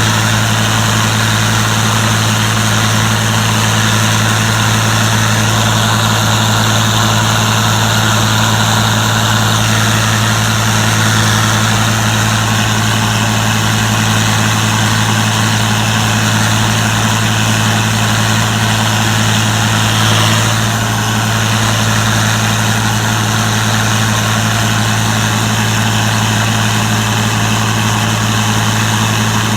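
Gleaner combine harvester's diesel engine and machinery running steadily with a constant low hum and hiss, with a brief swell about two-thirds of the way in.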